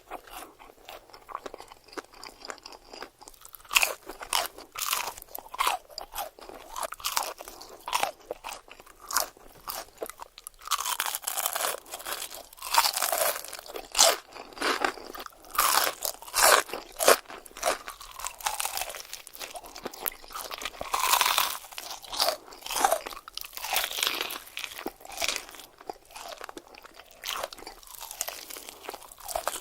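Close-miked crunchy eating: repeated crisp bites and chewing crunches of crunchy food, coming in dense crackling runs.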